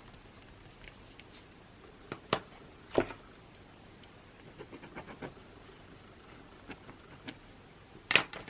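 Scattered sharp clicks and light taps from studying at a desk with a ballpoint pen and mechanical pencil. The loudest come about two and three seconds in and again near the end, with a run of softer ticks in between.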